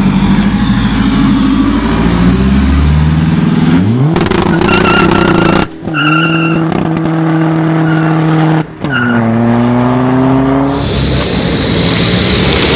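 Diesel VW Lupo accelerating hard, its engine revs climbing and then pulling up through the gears, with two quick gear changes about six and nine seconds in. Near the end a different car's sound takes over: a louder rush with a rising whistle.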